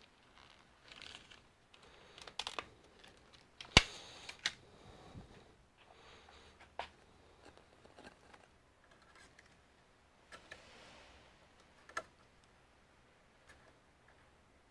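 Scattered clicks and taps of hands handling computer parts and their plastic and metal pieces. The sharpest, loudest click comes about four seconds in, with lighter ones spread through the rest.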